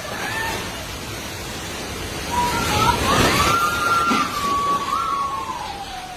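Strong wind rushing at around 80 mph, with a high whistling howl that slowly rises and falls in pitch from about two seconds in.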